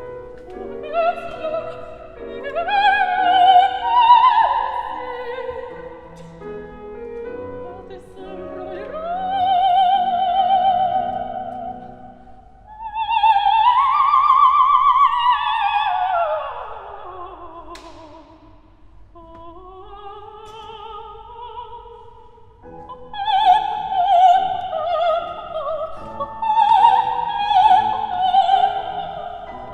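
Operatic singing: a high, soprano-range voice with wide vibrato rising and falling through phrases over instrumental accompaniment, with a long downward slide in the middle.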